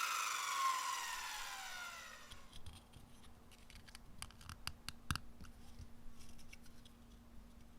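A power tool switched off and winding down, its whine falling in pitch and fading over about two seconds. Then light clicks and taps of handling, with one sharper knock midway.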